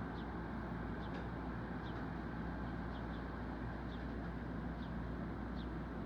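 Steady low outdoor rumble, with faint short high bird chirps about once a second and a brief click at the very start.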